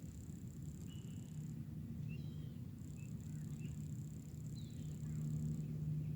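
Outdoor nature ambience: a high, thin insect trill that stops for about a second and later starts again, and a few short bird chirps scattered through it, over a steady low hum.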